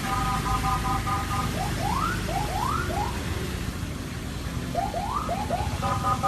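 Car alarm siren sounding, cycling through its tones: a rapid pulsing beep, then repeated rising whoops, then the pulsing beep again near the end, over a steady rushing background noise.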